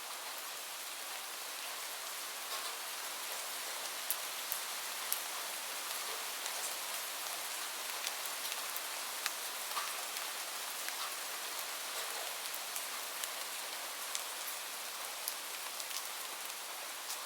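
Steady rain hiss mixed with the scattered, irregular sharp crackles of a wood fire in a fireplace.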